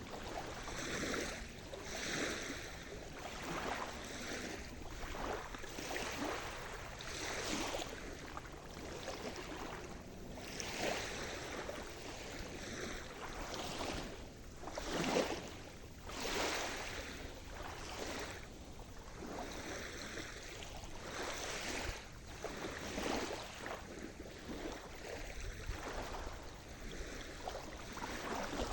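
Sea surf: small waves breaking and washing in one after another, each swelling and falling away every second or two, the biggest surge about halfway through.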